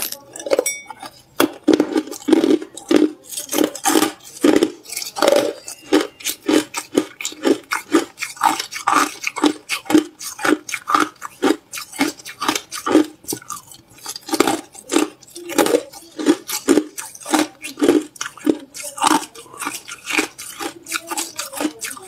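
Hard clear ice being chewed close to the microphone: a steady run of crisp crunches, about two a second.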